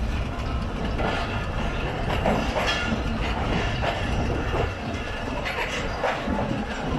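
Empty passenger coaches rolling past on the track, a steady rumble with the wheels knocking over rail joints every second or so.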